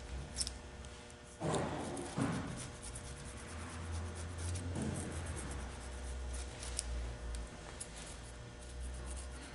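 Razor blade scraping old gasket material off the tail-housing mating surface of an automatic transmission case, in repeated short, scratchy strokes.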